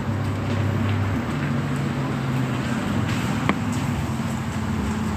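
Steady road and vehicle noise with a low engine hum that shifts pitch about a second in, and a few scattered sharp ticks.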